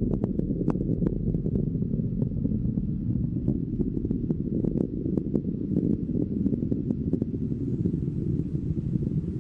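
Rocket engines during first-stage ascent: a steady low rumble with scattered sharp crackles.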